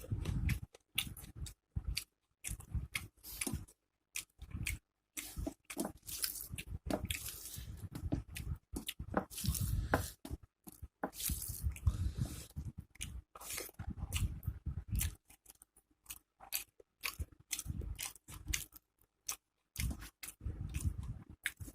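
Close-miked mouth sounds of someone eating: biting and chewing rice, curry and fried pakoras, with crunches and wet chewing in irregular bursts broken by short silent gaps.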